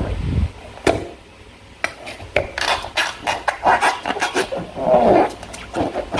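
Slime being squished and worked by hand, making irregular wet squelches and sticky clicks. There is a quieter spell about a second in.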